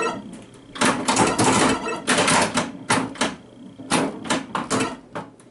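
Pinball machine mechanism clattering in about a dozen irregular bursts of sharp mechanical clacks.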